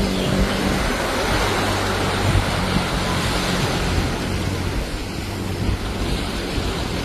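A motor vehicle engine running under a steady rushing noise, the engine hum fading after the first few seconds.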